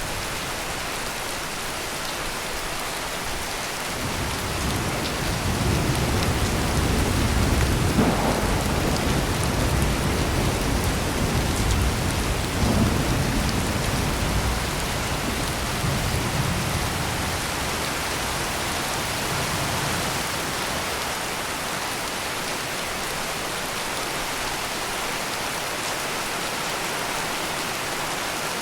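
Heavy rain pouring steadily, with a long roll of thunder that builds about four seconds in, swells twice, and fades away after about fifteen seconds.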